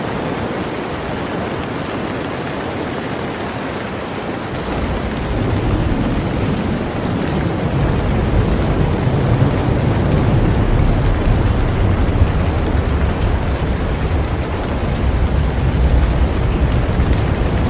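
Heavy rain falling steadily on a boat. About four seconds in, a low rumble of thunder rolls in and carries on under the rain.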